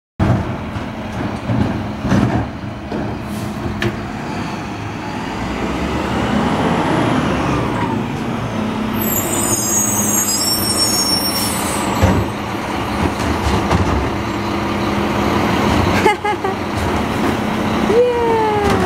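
Garbage truck running steadily, with a burst of high hiss about halfway through, a couple of sharp bangs, and a short falling squeal near the end.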